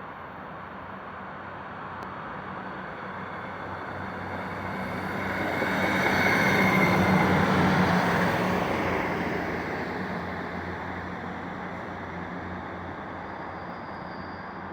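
Class 158 diesel multiple unit passing by: its engine hum and wheel noise grow louder, peak about seven seconds in, then fade away.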